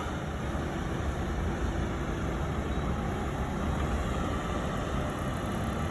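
Tractor engine running steadily as it works up and down a maize silage clamp: an even, low rumble with hiss.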